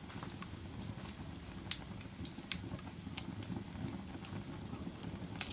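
A fire burning with a steady low rumble and irregular sharp crackles and pops, the loudest about a second and a half in and again near the end.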